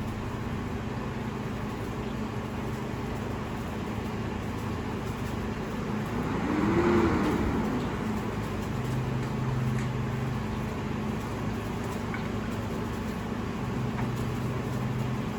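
Garbage truck engine running steadily, rising and falling in pitch once about seven seconds in.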